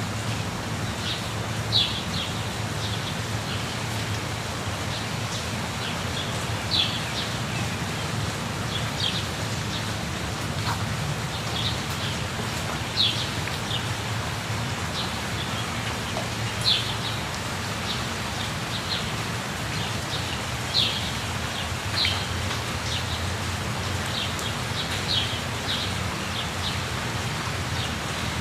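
Steady rush of a waterfall, with a bird giving a short high chirp again and again every few seconds.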